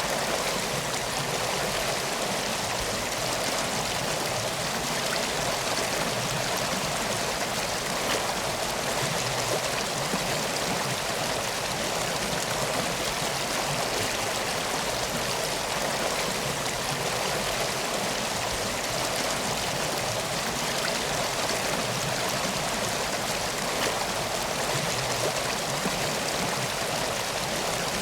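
A river flowing in a steady, even rush of water, with faint scattered ticks.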